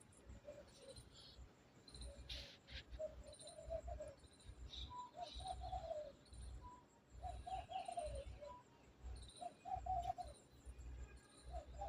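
Doves cooing in short repeated phrases, one every second or two, with small birds chirping faintly and a low rumble coming and going underneath.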